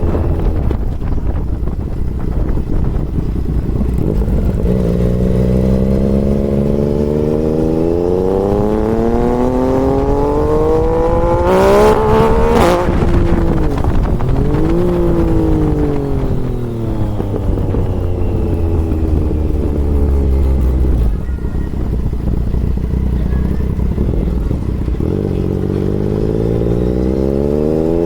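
Motorcycle engine under way, its pitch climbing steadily as it accelerates for several seconds, dropping sharply midway, then easing off and settling low before rising again near the end.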